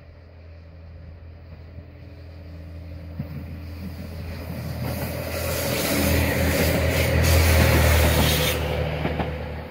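JR West DEC741 diesel-electric inspection railcar approaching and passing close by: the steady drone of its diesel engine grows louder, joined by rising wheel-on-rail noise that peaks as the car goes past about eight seconds in, then falls away.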